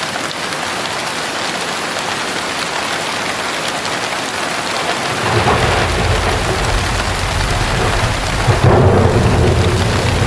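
Heavy rain pouring steadily, with a roll of thunder rumbling in about halfway through and swelling to a loud clap near the end.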